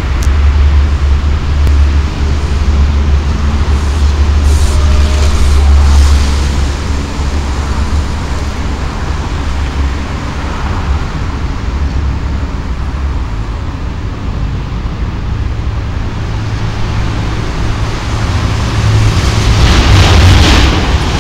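Steady low rumble, then an electric commuter train coming close near the end, its wheel and track noise rising loud over the last couple of seconds.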